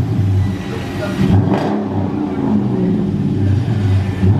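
2018 Dodge Charger R/T's V8 revving through Super 10 mufflers with the resonators deleted: loud, the revs rising and falling, with a sharp blip about a second and a half in.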